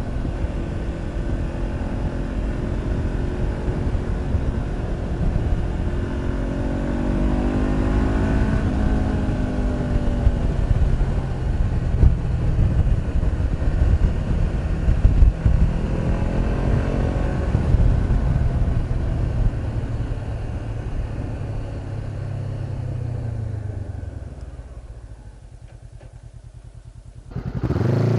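Honda CB500X 471 cc parallel-twin with a Staintune exhaust, ridden along with heavy low rumble; the engine pitch rises and falls a few times. The sound fades away about three-quarters through, then comes back abruptly about a second before the end.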